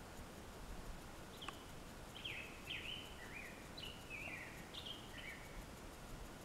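A bird calling over a faint steady outdoor hiss: a quick run of about nine short notes, each sliding down in pitch and alternating higher and lower, starting about two seconds in and lasting some three and a half seconds.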